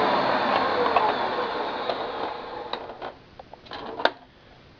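Hoover Powermax self-propelled vacuum cleaner's motor winding down after being switched off, its hum falling in pitch and fading out over about three seconds, followed by a few light clicks and knocks.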